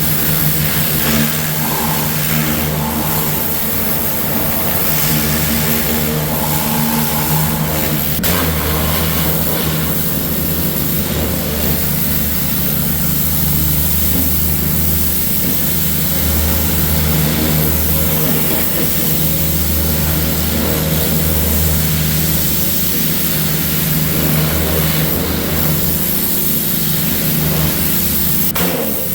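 Gas-engine pressure washer running steadily, its engine humming under the constant hiss of the water spray.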